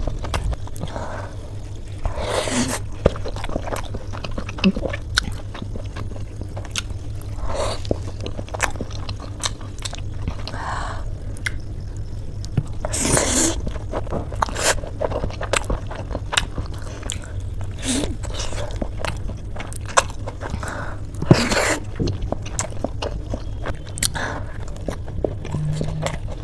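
Close-miked chewing of soft steamed dumplings: irregular, wet mouth sounds with occasional sharper clicks, over a steady low hum.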